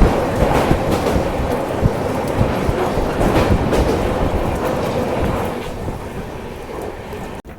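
Hirakhand Express passenger train running along the track, heard from on board: a steady rumble with the clickety-clack of wheels over rail joints. The noise eases off over the last couple of seconds, then cuts off abruptly near the end.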